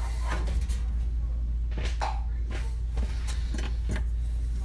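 Scattered light clicks and taps of hands handling the new oven igniter and its wires, over a steady low hum.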